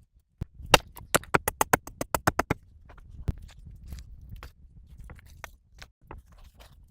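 A quick run of about a dozen sharp knocks, roughly five or six a second, then scattered scraping and lighter taps, typical of hand-tool work on wood or earth.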